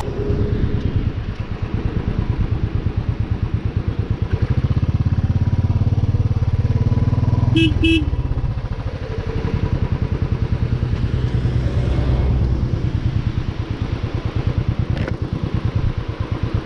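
Motorcycle engine running steadily under way, its exhaust pulsing evenly and a little louder for a few seconds in the middle. A horn beeps twice briefly a little before the middle.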